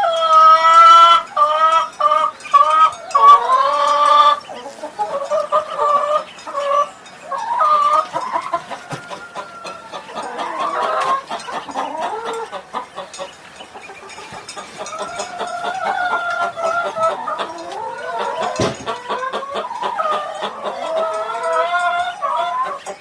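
Chickens clucking and calling, with loud, choppy calls in the first four seconds or so, then softer clucking that carries on.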